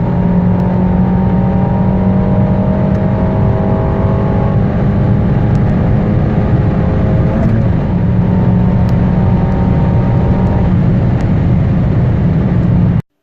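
Peugeot 308 GTi's 1.6-litre turbocharged four-cylinder engine at full throttle, pulling hard toward top speed with a steady drone that climbs slowly in pitch. The sound cuts off abruptly near the end.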